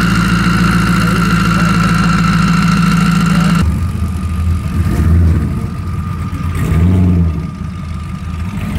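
V8 race car engines idling at the line with a steady high-pitched whine. About three and a half seconds in, the sound changes abruptly to a deeper engine note that swells twice, as in light revs.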